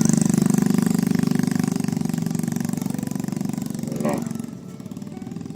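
A small engine running steadily with a fast, even pulse, fading away over the last second or so. A short pitched call rises and falls about four seconds in.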